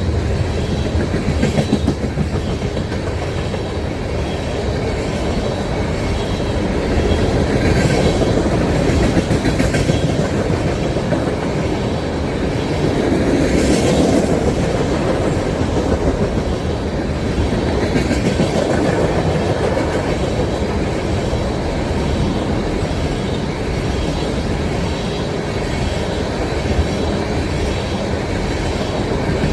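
A train rolling past, its railcars running steadily with the clickety-clack of wheels over rail joints.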